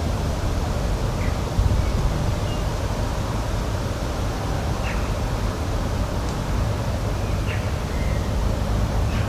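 Outdoor ambience: a steady low rumbling noise with faint, short bird chirps scattered through it, about six in all.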